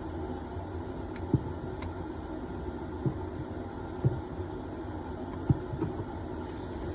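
Steady low background hum with a handful of short, sharp clicks and knocks, the sound of metal hand tools being set against a copper supply pipe and its compression fitting.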